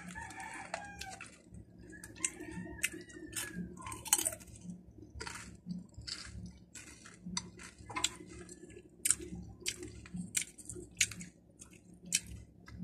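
A person chewing crunchy chili-flavoured snack chips: an irregular run of short, crisp crunches, about two or three a second.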